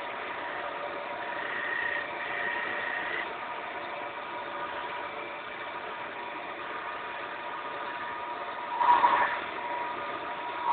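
Wood lathe running steadily with a machine hum. About nine seconds in there is a louder burst of noise lasting about half a second.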